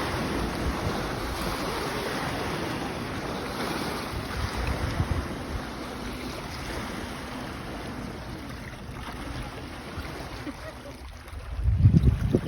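Sea surf washing in a steady rush, with wind buffeting the microphone; a loud low gust of wind noise comes near the end.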